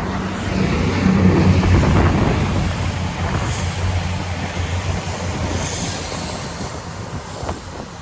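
Diesel train passing, its engine hum holding a steady low pitch and slowly fading away.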